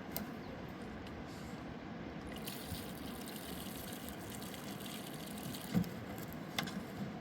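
Water trickling and splashing over the steady rush of a mountain river, with a couple of soft knocks near the end.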